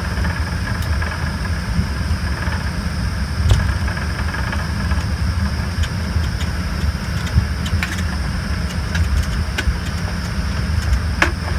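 Steady low rumble and faint whine inside the cabin of an Embraer ERJ-145 regional jet, its rear-mounted Rolls-Royce AE 3007 turbofans running at idle before takeoff. A few light clicks and knocks come from around the cabin.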